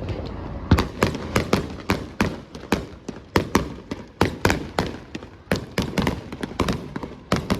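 Fireworks going off in a rapid barrage: many sharp bangs, about three or four a second, beginning just under a second in.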